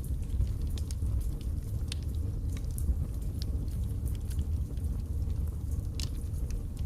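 Wood fire burning in a fireplace: a steady low rumble with scattered sharp crackles and pops, one louder pop near the end.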